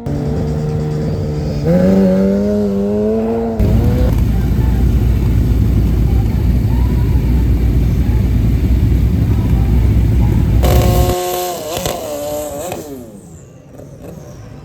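Race engines held at high revs with the pitch climbing, then a sudden loud full-throttle launch that runs for about seven seconds. The engine note then drops and fades away.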